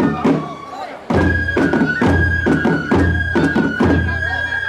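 Japanese festival music: a transverse flute holds a high note over sharp drum strikes about twice a second. The music breaks off just after the start and comes back in about a second in.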